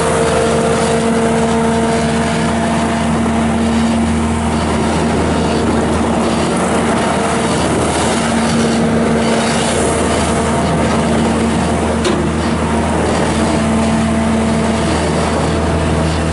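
Kubota V3307 four-cylinder diesel engine of a Bobcat S650 skid steer loader running steadily under operation, with a whine that comes and goes several times over the engine note.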